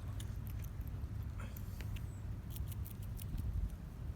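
Squirrel crunching popcorn: quick crisp clicks in clusters, thickest about two and a half to three and a half seconds in, over a steady low rumble of wind on the microphone.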